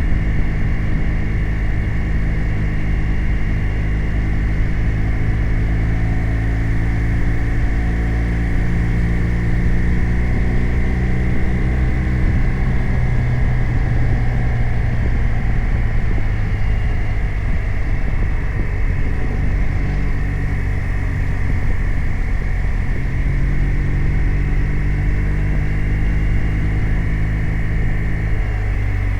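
BMW R 1250 RT's boxer-twin engine running under way at a steady pace, its note easing down through the middle and picking up again toward the end, over continuous wind and road noise.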